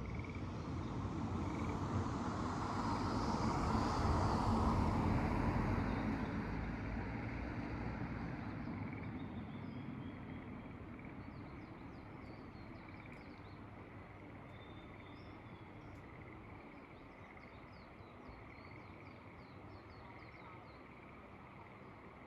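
Rice-terrace ambience: a steady frog chorus with birds chirping, under a rush of noise that swells over the first few seconds and fades away by about ten seconds in.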